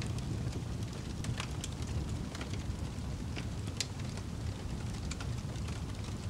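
Wood fire in a fireplace crackling, with scattered sharp pops (the loudest about four seconds in) over a steady low rumble.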